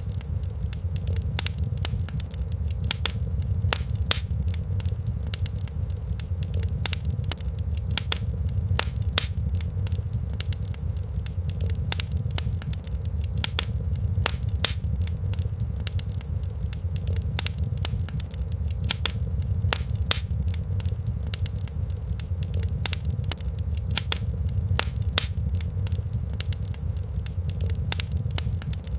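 Wood fire crackling in a fireplace, with sharp pops at irregular intervals over a steady low rumble.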